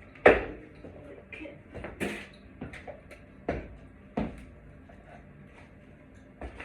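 Ceiling-fan parts, among them the light kit, being picked up and handled: a series of irregular knocks and clatters, the loudest about a third of a second in, then others at about two, three and a half, and four seconds.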